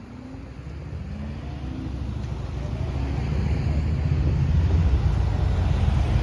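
Diesel freight train approaching, its low engine and wheel rumble growing steadily louder.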